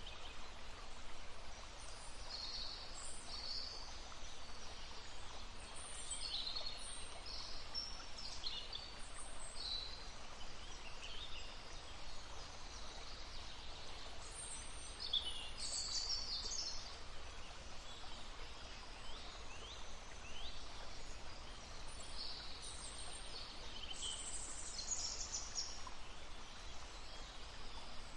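Small songbirds chirping and calling in short high phrases, over the steady rush of a babbling brook.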